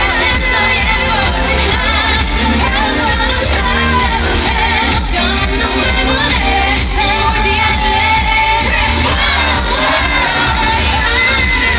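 Live pop song played loud through a PA: a female vocalist sings with vibrato over a band backing track with a heavy, steady bass.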